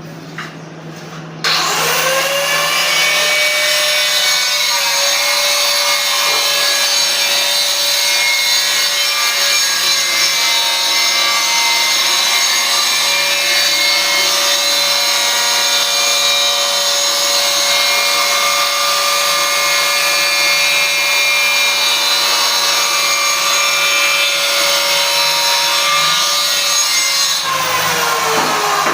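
Power tool cutting or grinding for most of the clip, its motor spinning up sharply about a second and a half in, running at a steady speed, then winding down near the end.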